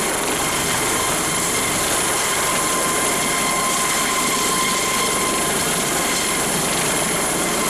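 AS365N Dauphin twin-turbine helicopter running steadily, a loud even rotor and engine rush with a constant high turbine whine over it.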